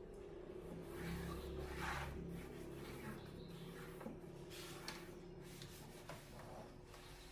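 Faint rubbing, scraping and small clicks of hands and tools working on a TV, over a steady low hum.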